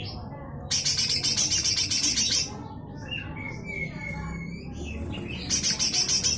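Cucak hijau mini (lesser green leafbird) giving harsh, rapid rattling 'besetan' calls at about eight strokes a second. Two runs, the first lasting about two seconds from just under a second in and the second starting near the end, with softer chirps and whistles between them.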